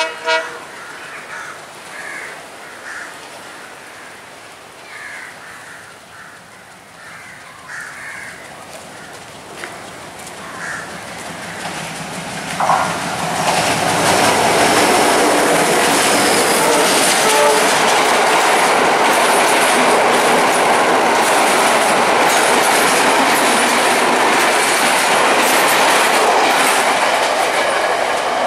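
Express train hauled by a diesel locomotive running past. It is quiet for the first dozen seconds, then from about halfway in comes a loud, steady rumble and wheel clatter over the rail joints as the coaches pass close.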